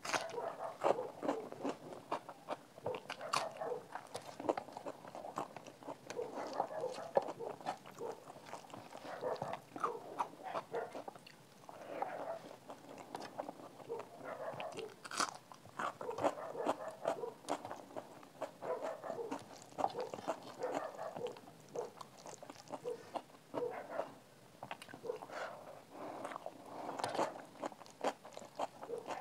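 Close-miked mouth sounds of a person chewing rice mixed with a crunchy fried snack mix, with frequent crisp crunches.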